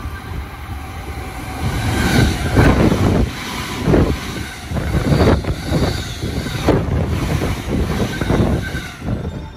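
JR East E257-500 series limited-express electric train passing close at speed: a loud rumble with a string of clacks from its wheels, building about two seconds in and falling away near the end.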